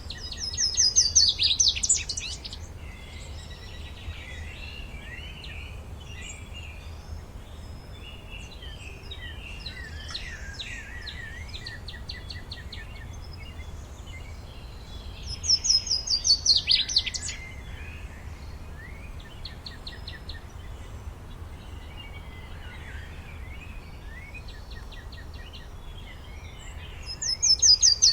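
Forest birdsong: one bird sings a loud, quick trilled phrase of about two seconds three times, roughly every thirteen seconds, over softer chirps and calls from other birds and a low steady rumble.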